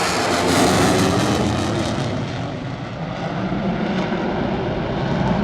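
Loud, steady engine noise of a display aircraft flying overhead.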